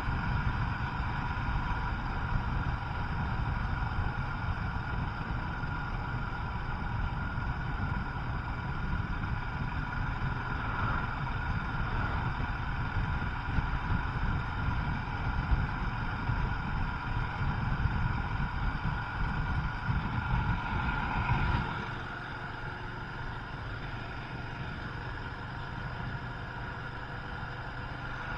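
Royal Enfield Himalayan's 411 cc single-cylinder engine running steadily while riding, under a constant rumble of wind on the microphone. The low rumble drops away about three-quarters of the way through.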